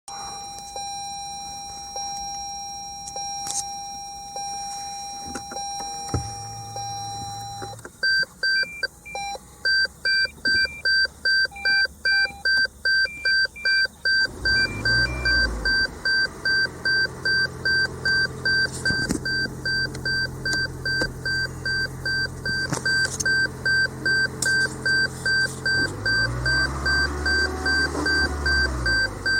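An electronic warning chime beeping about twice a second, the loudest sound, over a steady high electronic whine. About halfway through, the Lexus NX300h's 2AR-FXE 2.5-litre four-cylinder hybrid engine starts up and runs, its pitch rising and falling twice.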